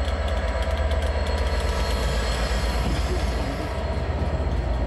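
Class 67 diesel locomotive train passing, its two-stroke V12 engine giving a steady low rumble under the rushing noise of wheels on rail. The rushing noise swells about halfway through, then eases.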